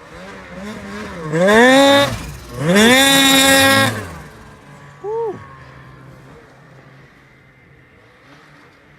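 Ski-Doo Summit 850 snowmobile two-stroke engine revved hard twice, its pitch climbing each time and then holding high for about a second. A short quick blip of the throttle follows about five seconds in, and after that the engine settles back to a low idle.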